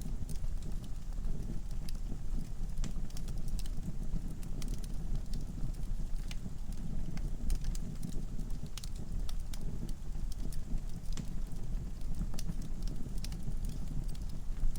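Log fire in a fireplace burning, with a steady low rumble of flame and irregular sharp crackles and pops from the logs.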